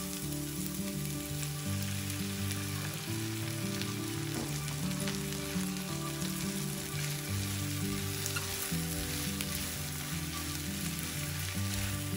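Chopped green beans sizzling steadily in hot oil in a nonstick frying pan as eggs are cracked in and stirred, with a few faint clicks. Soft background music runs underneath.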